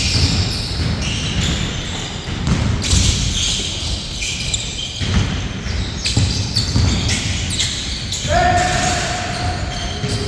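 A basketball bouncing and thudding on an indoor court during play, with players' voices echoing in the hall. A steady tone lasting under two seconds comes in about eight seconds in.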